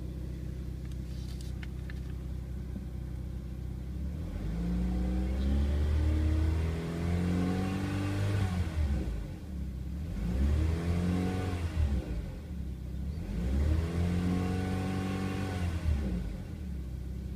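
2002 Saturn L200's 2.2-litre four-cylinder engine idling, then revved three times, each rev rising and falling back to idle before it settles to a steady idle near the end. It runs very nice and smooth for a high-mileage engine of nearly 196,000 miles.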